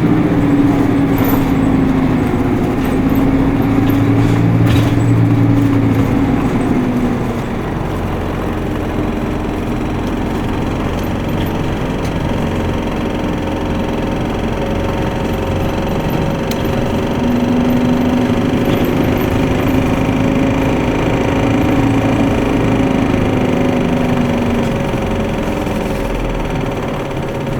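Isuzu Erga Mio city bus's four-cylinder diesel engine heard from inside the cabin, pulling hard for several seconds, easing off, then pulling hard again for several seconds.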